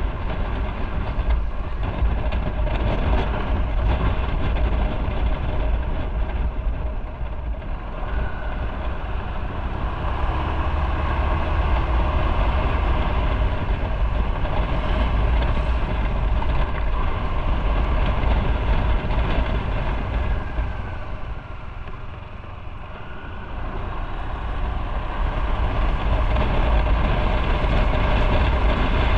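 Motorcycle engine running while riding, with wind rumbling on the microphone. It eases off briefly about two-thirds of the way through, then picks up again.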